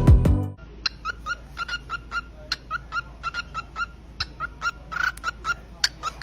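A small animal making short, high squeaking calls over and over, several a second, after music cuts off in the first half second.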